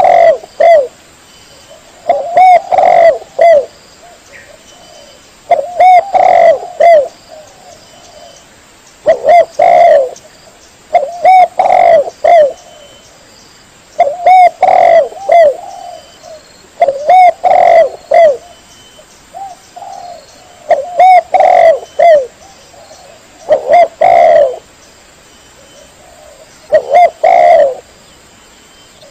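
Spotted dove (tekukur) cooing: a short phrase of three or four low coos, each rising and falling in pitch, repeated about every three seconds.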